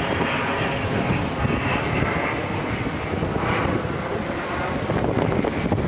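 Wind buffeting the microphone: a steady rumbling rush.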